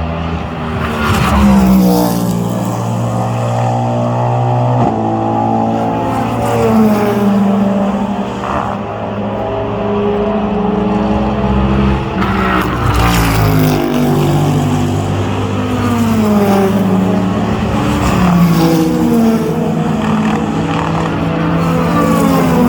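Endurance race cars going past one after another, their engines overlapping, pitch stepping with gear changes and gliding up and down as each car passes.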